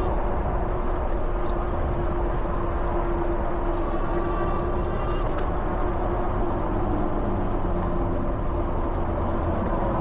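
Steady riding noise from an e-bike on the move: an even rush of wind and rolling noise, with a faint steady whine running through it.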